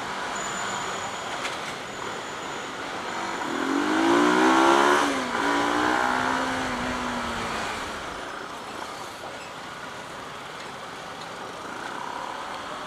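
Bajaj Pulsar NS200's single-cylinder engine revving up, its pitch rising for about two seconds, then dropping at a gear change and settling to a lower steady note, over a constant haze of wind and traffic noise.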